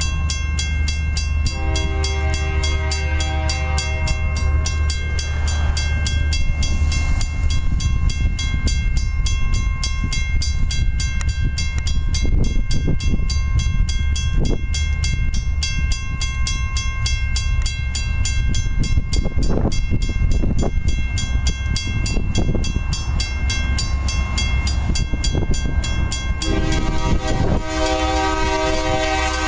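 Freight train rolling through a grade crossing with a steady low locomotive rumble. Its air horn sounds a chord briefly about two seconds in and again, long, near the end. A fast, even ringing runs throughout, typical of a crossing bell, and scattered wheel clicks come in the middle.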